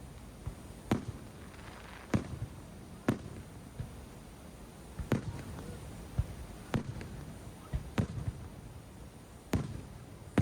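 Aerial fireworks shells bursting in a string of sharp booms, about seven main ones in ten seconds with a few smaller pops between, each trailing off briefly.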